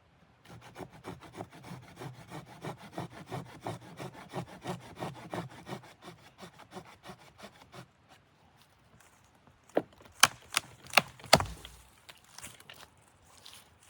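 Wood being cut with a hand saw in quick, even back-and-forth strokes for about seven seconds. Then, after a pause, about five sharp knocks, the loudest sounds here.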